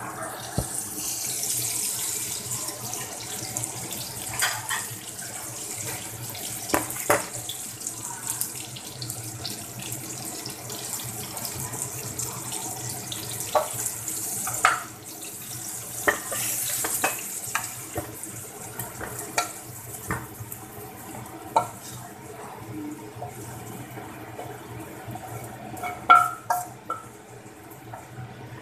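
Food sizzling in hot oil in a wok, a steady hiss, with a spatula knocking and scraping against the pan. Near the end come a few louder clacks as the food is scooped out.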